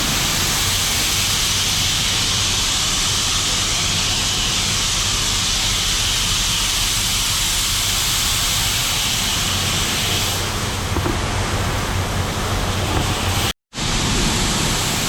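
Grain truck engine running while shelled corn pours out of the raised bed in a steady, loud hiss. The sound drops out for a split second near the end, then resumes.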